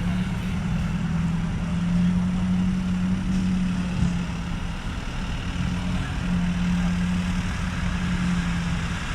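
Large truck engine idling with a steady low hum.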